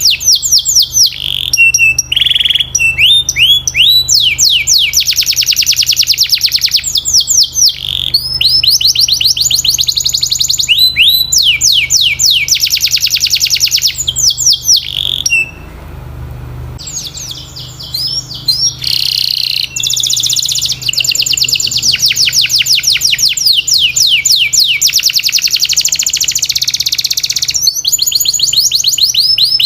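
Domestic canary singing: long, fast trills of repeated high notes, switching from one trill to another every few seconds, with a short break about halfway through.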